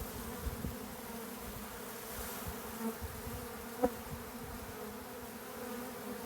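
A mass of honeybees buzzing in a steady, pitched drone, from a disturbed colony being moved by hand into a hive box. A single sharp click comes about four seconds in.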